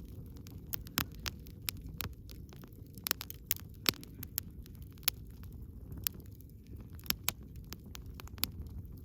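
Wood campfire crackling: irregular sharp pops and snaps from the burning logs, a few a second, over a low steady rumble of the flames.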